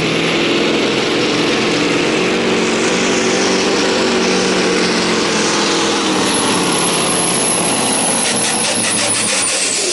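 Scania pulling truck's diesel engine running hard under full load as it pulls the weight sled, its pitch holding steady. A rapid run of sharp ticks comes in near the end.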